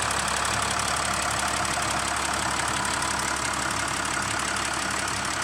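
Nissan Navara engine running steadily, holding an even speed with no revving.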